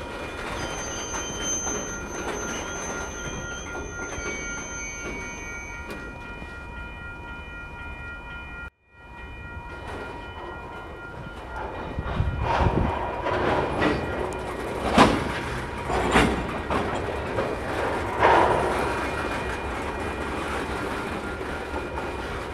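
A freight train of tank cars rolling slowly past, with a steady rumble and thin squealing tones from the wheels. In the middle come several loud clanks and bangs from the cars.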